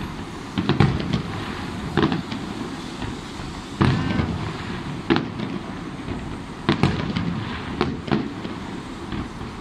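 Aerial fireworks shells bursting in the sky: sharp bangs at irregular intervals, about one every second or so, over a steady low background rumble.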